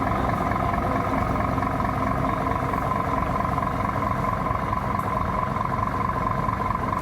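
Scania truck's diesel engine idling steadily, with a steady whine over the low running.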